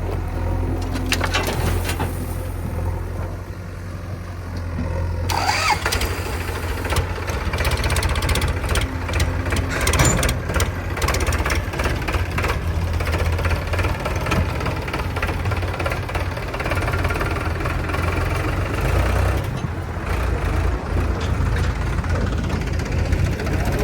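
Diesel engine of heavy machinery running with a steady low beat and rising in speed about five seconds in. A run of knocks and clatter follows over the next several seconds.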